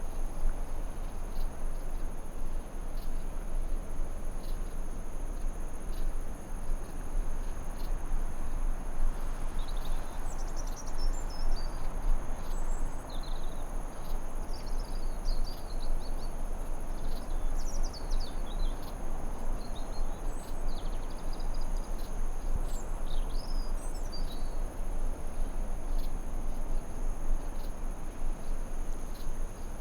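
Forest ambience: a steady high-pitched insect or cricket chorus over a low, even rush of noise, with a bird giving a series of short twittering chirps through the middle.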